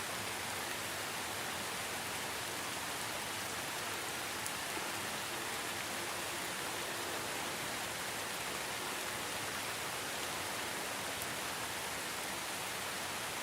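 Steady rain falling, a dense even hiss with a few individual drop ticks.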